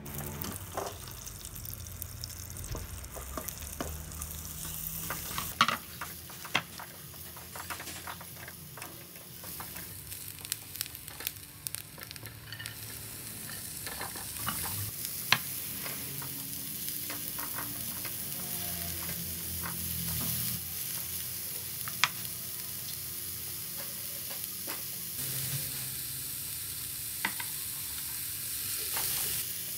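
Butter and then diced onion and carrots sizzling in a nonstick frying pan as they are sautéed, a spatula stirring and scraping with occasional sharp taps against the pan. The sizzle grows louder about halfway through, when the carrots go in.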